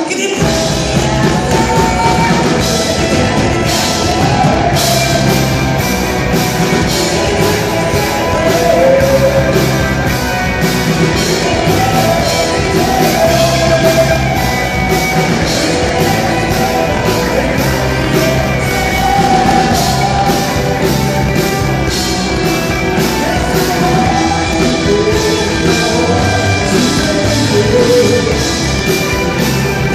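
Rock song with singing over a full band. Drums and instruments come in together right at the start, then run on at a steady loud level with regular drum hits.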